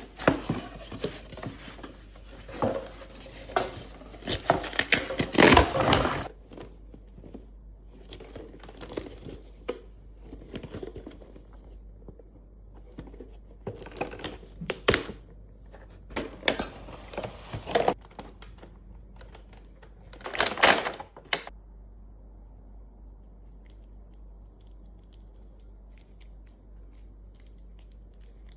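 Packaging being handled and opened by hand: irregular bursts of tearing, rustling and crinkling with a few knocks, loudest around five seconds in and again about twenty seconds in. It stops about twenty-two seconds in, leaving only a low steady room hum.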